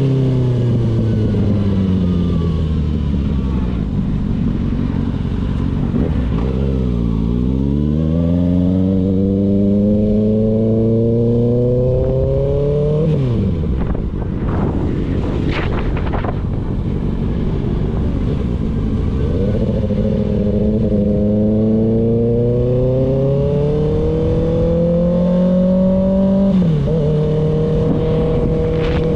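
Kawasaki ZX6R inline-four engine riding through the revs: the engine note falls for the first several seconds, climbs steadily, drops sharply about halfway, climbs again and dips briefly near the end before holding steady.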